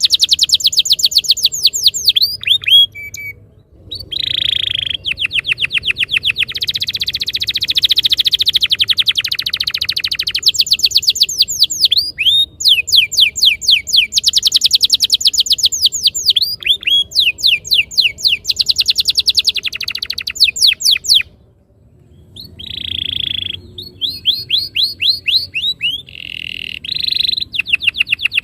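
Domestic canary singing long rolling trills of fast repeated high notes. The song breaks off briefly about three and a half seconds in and again about twenty-one seconds in.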